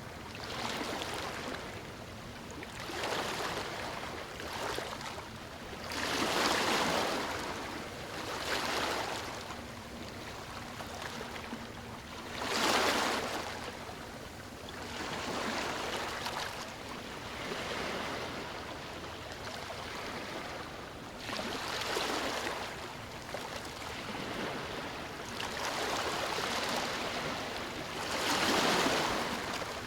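Sea waves breaking and washing up a beach, swelling and fading every few seconds, with a few bigger waves standing out louder.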